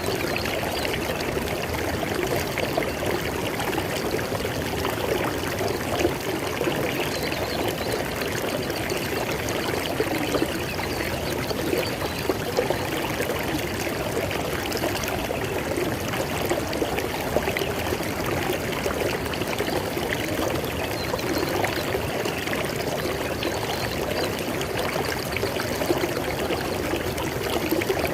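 River water flowing steadily over rocks, with a busy babbling and splashing.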